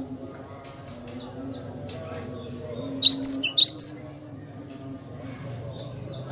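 Cinereous tit (glatik batu) singing: faint high chirps, then a loud burst of about four sharp, sweeping whistled notes about three seconds in.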